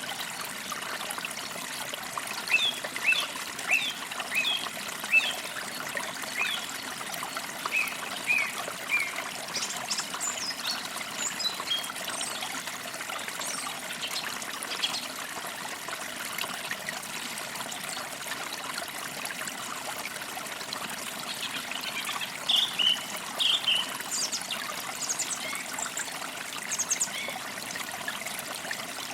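Forest creek trickling steadily, with small birds chirping over it: a run of short chirps a few seconds in, scattered higher calls in the middle, and another cluster of chirps later on.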